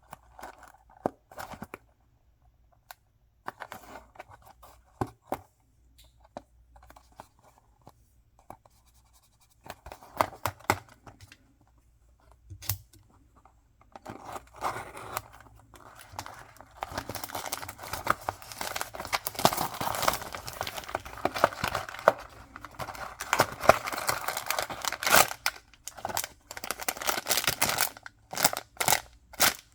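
Packaging being handled and torn open: scattered taps and rustles, then from about halfway a long stretch of tearing and crinkling.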